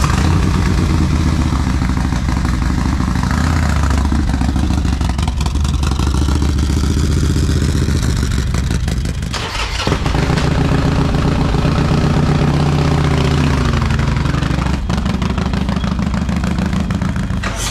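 Harley-Davidson V-twin motorcycle engines running close by after being started, with throttle changes. The engine sound changes abruptly about halfway through and again near the end.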